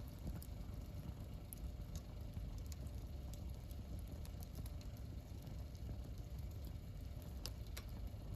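Wood campfire burning: a low steady rumble of flame with a few sharp crackles and pops, the brightest ones near the end.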